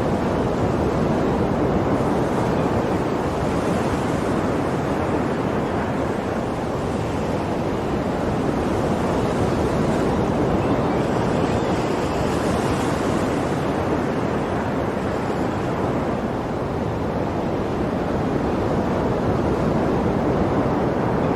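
Ocean waves washing onto a shore in a steady, continuous surge, with slow gentle swells in loudness.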